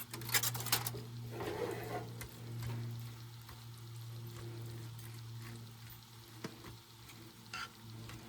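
A utensil scraping and stirring in a pot for the first two seconds as cooked rice is fluffed, then a steady low hum from the Coleman camp stove burner with food frying and sizzling over it.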